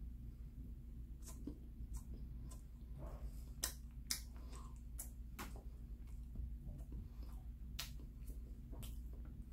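A person chewing bread with the mouth closed: irregular small wet clicks and smacks of the lips and tongue, over a steady low hum.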